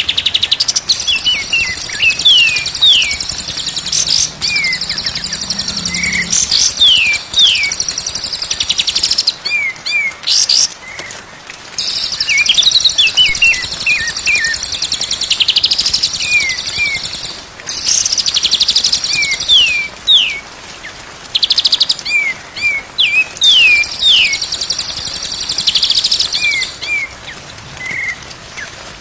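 White-rumped shama (murai batu) singing: repeated short whistles sliding downward, over long stretches of fast, high, buzzy chatter, in phrases broken by short pauses.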